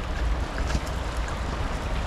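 Wind buffeting the microphone: a steady low rumble under an even rushing hiss.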